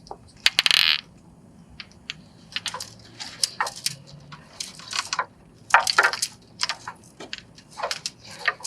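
Hands handling a string of LED bulb lights: a run of short rustles, clicks and light knocks, the loudest a half-second rustling scrape about half a second in.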